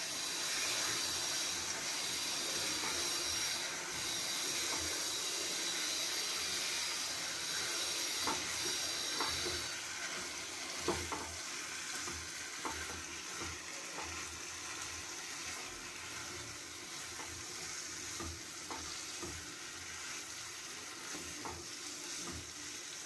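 Boiled kidney beans sizzling in hot oily masala in a non-stick kadhai while a spatula stirs them in, with scattered scrapes and taps of the spatula against the pan. The sizzle is strongest in the first half and eases off after that.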